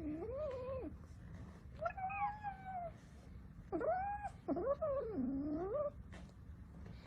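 A domestic cat meowing in several long, drawn-out calls that slide up and down in pitch, the last two running almost together.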